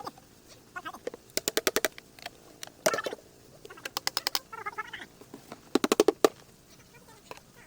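Dried bottle gourds being beaten to free their seeds: several short runs of rapid dry clicking and rattling, about a dozen clicks a second. A bird chirps between the runs.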